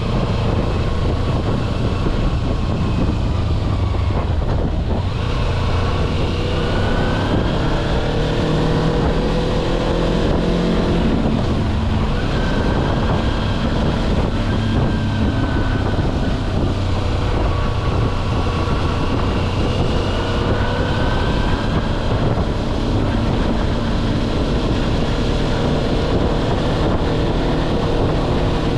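Kawasaki Versys-X 250's parallel-twin engine running on the move, its pitch rising and falling several times with throttle and gear changes, over steady wind rumble on the microphone.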